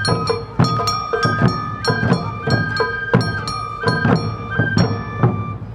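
Awa Odori festival music: a bamboo flute playing a melody that steps between two high notes, over drums and a ringing metal gong struck to a steady beat.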